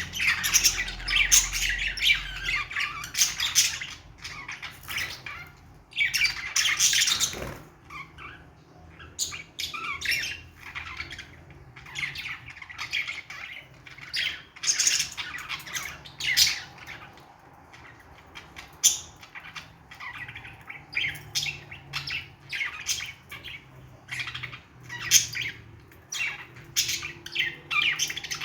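Budgies chattering: a busy run of chirps, warbles and squawks with short pauses, busiest in the first few seconds and again over the second half.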